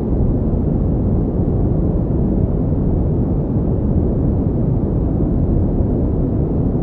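Steady pink noise: an unbroken, even rushing hiss, heaviest in the low end and with little treble.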